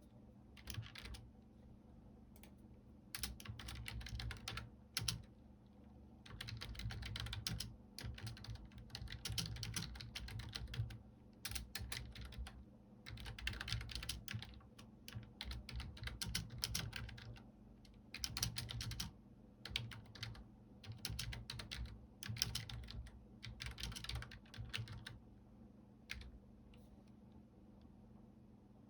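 Typing on a computer keyboard: quick runs of key clicks lasting a second or a few, with short pauses between. The typing stops a few seconds before the end, leaving only a faint steady hum.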